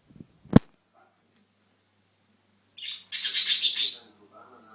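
A single sharp knock about half a second in, then budgerigars giving a burst of rapid, high-pitched chirping chatter for about a second.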